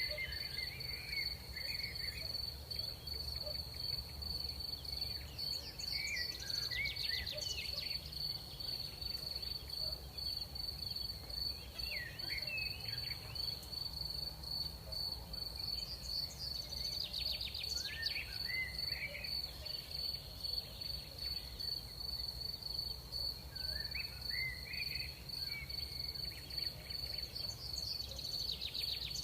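Crickets trilling steadily on one high pitch, over a low rumble of night air. Short chirping calls come in every few seconds, and there are a few brief rapid clicking trills.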